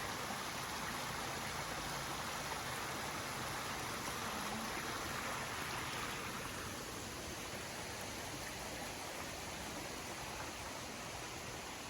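Mountain stream flowing over rocks: a steady rush of water, a little softer in the second half.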